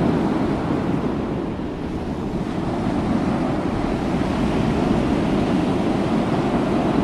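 A steady rushing noise at an even level, like wind or surf, laid under a title card.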